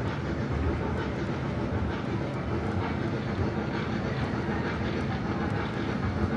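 A small ride-on mall train running at a steady pace, with an even, unbroken rumble of its running gear as it rolls along the floor.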